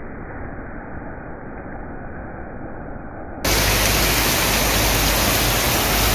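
Heavy rain pouring steadily as an even hiss. About three and a half seconds in it jumps abruptly to a much louder, hissier rush of the same downpour.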